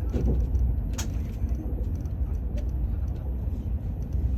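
Steady low rumble of a moving vehicle, with a sharp click about a second in.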